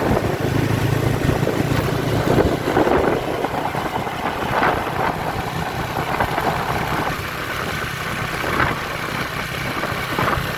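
Dense street traffic of many motorbike engines running, heaviest in the first couple of seconds, with scattered brief higher sounds over the steady noise.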